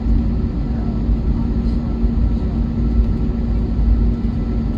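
Steady cabin noise of an Airbus A321neo on the ground with its engines running: an even low rumble with a constant hum, not rising in pitch.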